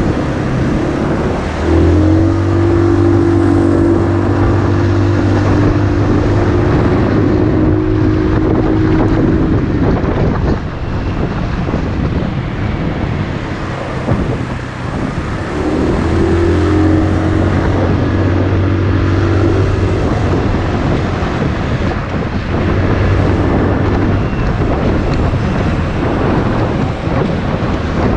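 Motorcycle engine running under way, with wind rushing over the microphone. The engine note rises as it picks up speed about two seconds in and again around sixteen seconds, then holds steady.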